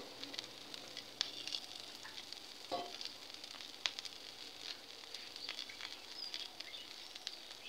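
Chopped kolai shak greens frying in hot mustard oil in a karahi: a faint steady sizzle with a few small crackles.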